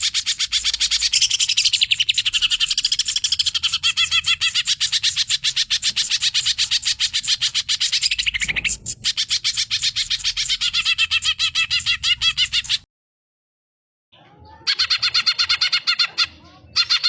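Cucak ijo (green leafbird) singing a fast, unbroken stream of high chattering notes. The song breaks off for about a second near the end, then starts again.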